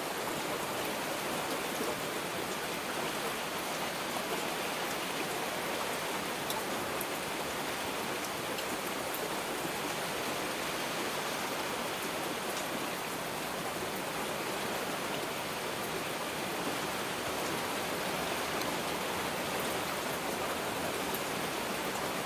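Heavy rain falling steadily, an even hiss with a few sharp drop ticks here and there; no thunder.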